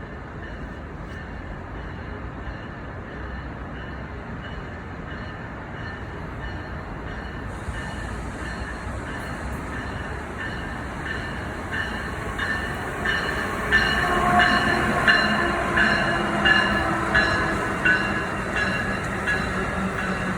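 Amtrak passenger train growing louder as it comes in, then its wheels clicking over rail joints at a steady rhythm, about one and a half clicks a second, with a steady ringing tone over a low rumble.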